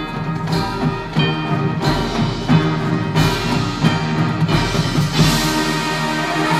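High school marching band playing its field show: sustained chords from the winds over drums and timpani, with sharp percussion accents every second or so.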